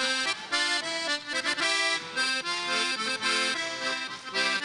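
A garmon (Russian button accordion) plays a quick folk dance tune in chords, the instrumental interlude between sung chastushka verses.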